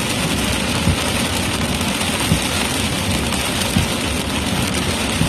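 Steady road and engine noise inside a car cruising at about 50 mph, with a soft low thump roughly every second and a half.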